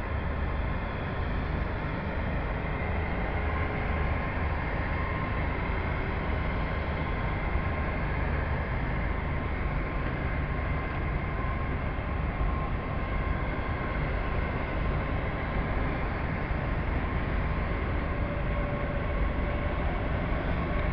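Great Western Railway Class 802 train pulling out of the platform: a steady drone of its underfloor diesel engines with a faint whine running through it.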